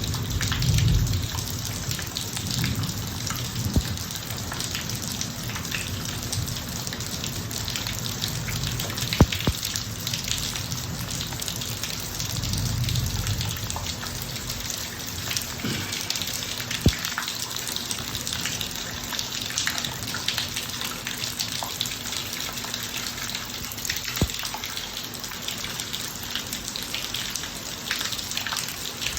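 Steady rain falling on a driveway, with many small drop ticks and two sharper, louder drip hits. A low rumble swells near the start and again around the middle.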